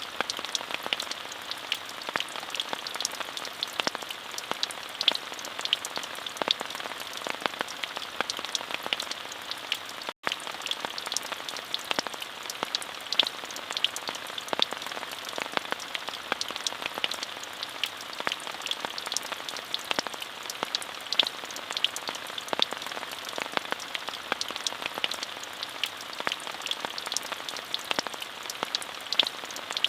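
Steady rain, with many separate drop hits sounding over an even hiss. The sound cuts out for an instant about ten seconds in.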